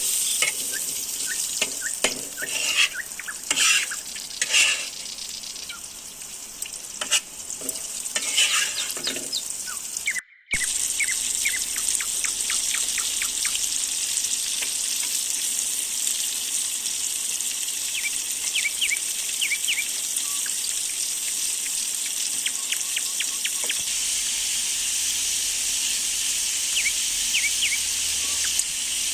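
Lamb and vegetables sizzling in a sac, the wide iron pan of saj kebab. For the first ten seconds a utensil stirs and knocks in the pan; after that the sizzling runs on steadily alone.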